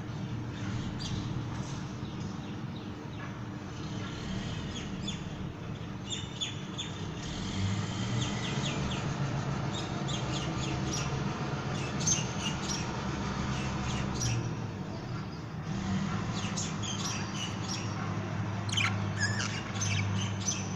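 Budgerigars chirping and chattering, a run of quick high chirps and short trills, busiest in the second half. A steady low hum runs underneath.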